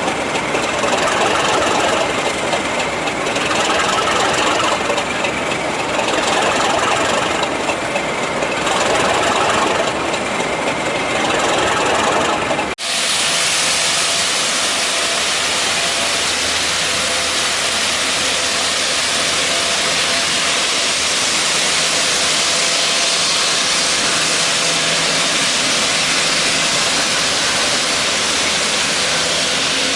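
Class 37 diesel locomotive's English Electric V12 engine running with a pulsing beat. About 13 seconds in the sound cuts abruptly to a steady hiss over a low engine hum.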